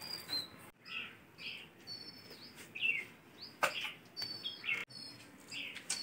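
Small birds chirping repeatedly in short, high notes, with one sharp tap about three and a half seconds in.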